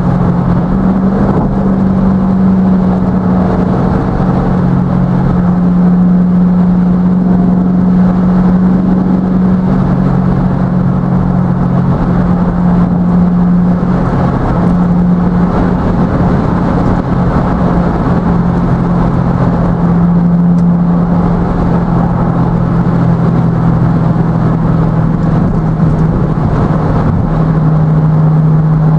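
Chevrolet V8 droning steadily at highway cruising speed, heard from inside the car over road and tyre noise; the pitch of the drone shifts a little now and then.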